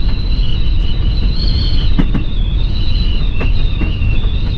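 A Class C motorhome driving in strong wind: a heavy, steady low rumble of road and wind noise, with a thin, wavering high whistle and a few faint clicks over it.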